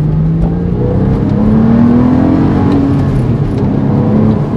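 Porsche 911 997.1's flat-six engine pulling under acceleration while driving, its note rising steadily for a couple of seconds and then settling back to a lower, steady pitch.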